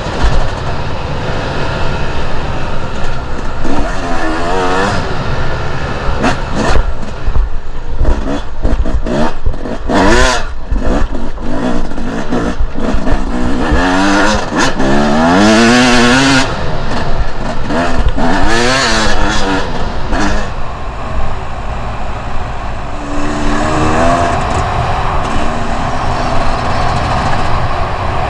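Two-stroke enduro dirt bike engine ridden off-road, the throttle opening and closing again and again so the pitch keeps climbing in sharp revs and dropping back.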